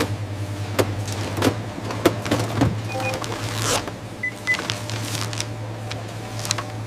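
Processing-line machinery running with a steady low hum, irregular clicks and clanks, and a few short high beeps around the middle.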